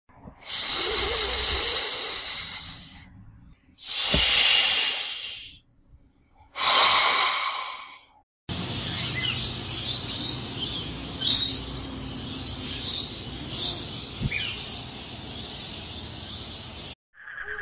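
Snake hissing: three long, breathy hisses separated by short pauses. About eight seconds in, this gives way to a noisy outdoor background with scattered short chirps and clicks.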